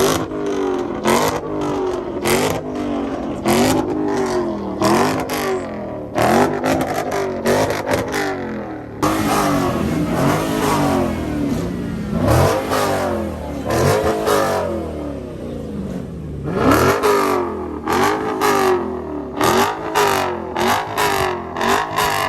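A V8 muscle car's engine revved hard over and over, about one rev a second, each rising and falling in pitch, with sharp cracking pops from the exhaust at the start of the revs. Midway the revs run together into a steadier, noisier stretch before the quick blips return.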